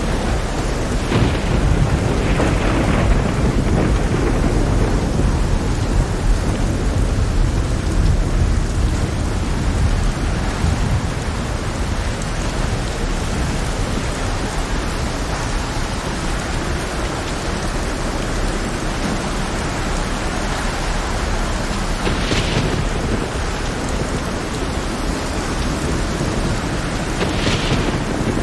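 Heavy rain in a thunderstorm: a steady downpour with a long low rumble of thunder through roughly the first ten seconds. Two short, brighter swells of hiss come near the end.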